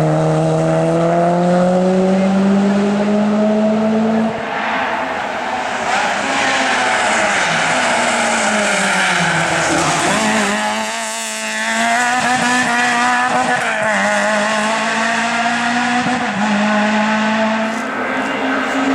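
Hill-climb race car's engine revving hard under acceleration, with an upshift about four seconds in. The engine note then falls as the car slows for a bend around ten seconds in, and climbs again as it accelerates away, with another shift near the end.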